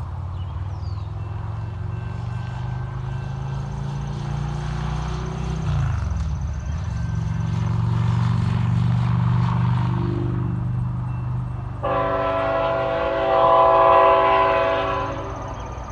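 Tier 4 diesel freight locomotives passing close by, their engines running with a deep rumble that drops in pitch about six seconds in. About twelve seconds in, the locomotive's air horn sounds one long chord for about three seconds.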